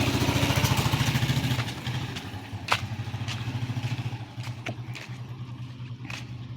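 A motorcycle engine running as it passes: a pulsing low rumble that is loudest at first and drops off after about a second and a half, then runs on more quietly. A few sharp clicks come in the second half.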